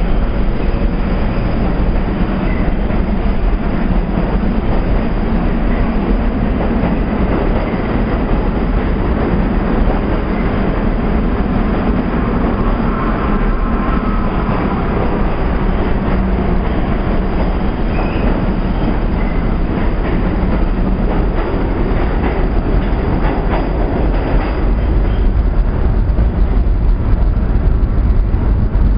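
R44 subway cars running out of the station: a steady, loud rumble of steel wheels on the rails with clickety-clack over the rail joints. A faint high whine comes in about halfway through, and the rumble grows slightly louder near the end.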